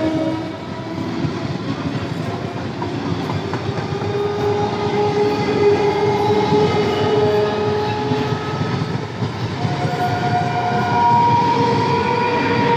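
Electric multiple-unit local train passing close by, its wheels rumbling and clattering on the rails. Steady whining tones run through it, shifting in pitch and moving higher near the end.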